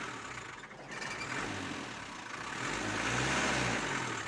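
Land Rover Defender's engine running, revving up and easing off about three seconds in, the loudest part.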